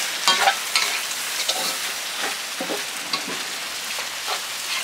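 Sai tan (pig's uterus) sizzling in hot oil as it is stir-fried in a pan, with scattered scrapes and clicks of the spatula against the pan.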